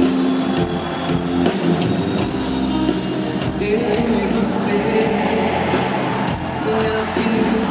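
Live band music playing at a concert, with guitar and held chords that change every second or so.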